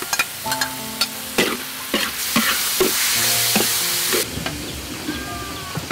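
Minced pork frying in a hot wok, sizzling, with a metal spatula scraping and clacking against the pan as it is stirred. The sizzle grows louder for about two seconds midway.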